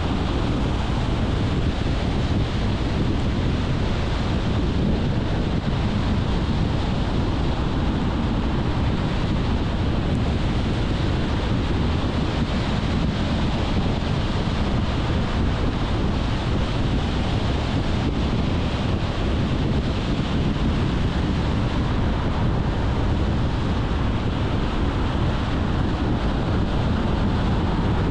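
Steady road noise from a car driving: tyre roar and wind noise on the microphone as one even rush, unchanging throughout.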